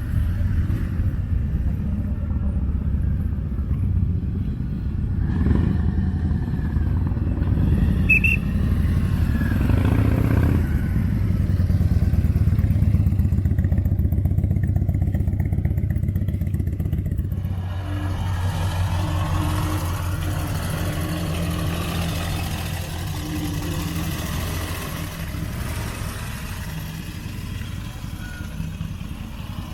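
Motorcycle engines running with a continuous low engine note that grows louder toward the middle and eases off in the second half.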